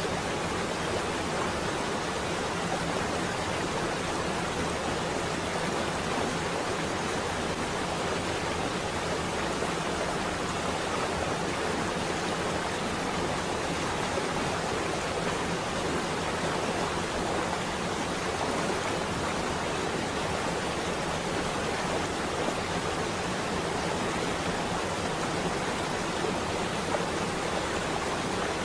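Steady rain on a window: an even, unbroken hiss with no thunder.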